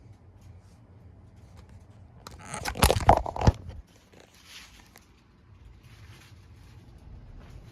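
Monte Carlo Vios ceiling fan running with a steady low hum. About two and a half seconds in, a loud burst of crunching, crackling noise lasts a little over a second, followed by a few faint rustles.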